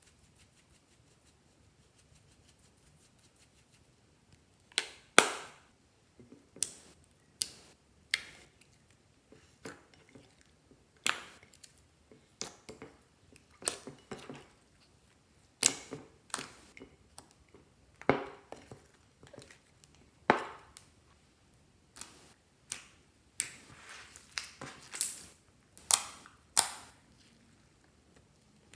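Clear slime being squeezed and folded by hand, giving irregular sharp pops and clicks from trapped air, roughly one every half second to second, starting about five seconds in.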